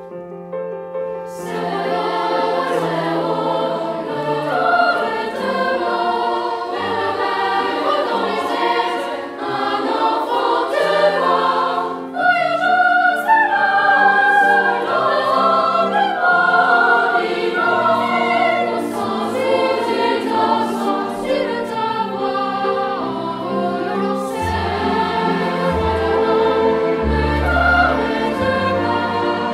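Background music: a choir singing over an orchestral accompaniment, which swells in about a second and a half after a quiet opening.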